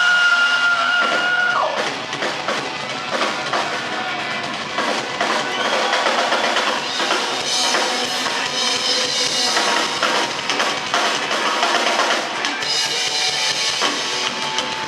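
Rock band playing live, the drum kit to the fore, starting with a long held high note that stops after a second or two.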